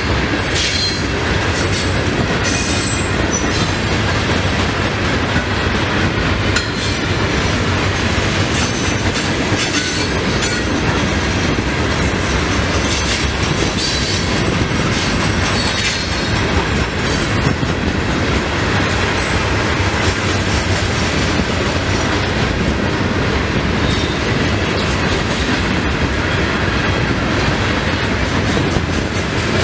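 Freight train of open-top hopper cars rolling steadily past on the near track: a continuous rumble of steel wheels on rail, a clickety-clack of wheels over rail joints, and brief high wheel squeals now and then.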